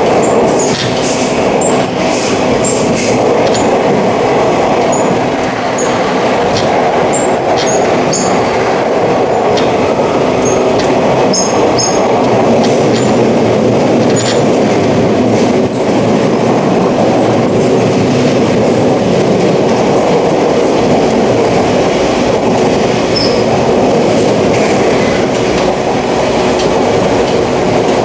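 Running noise of a 485-series electric train heard from inside a passenger car: a steady rumble of wheels on rails at an even speed, with scattered clicks and a few short high squeaks.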